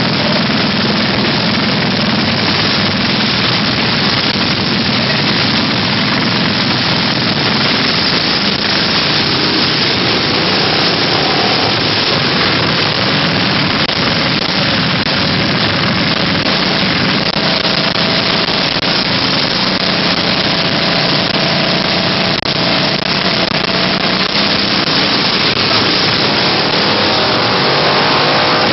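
Mini bike engines running, heard through a steady loud rush of noise, with a faint engine tone rising and falling now and then.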